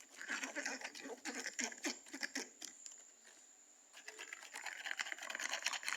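A shampoo-and-conditioner slime mixture being stirred in a container: quick, irregular wet clicks and taps. There is a lull around the middle before the stirring picks up again.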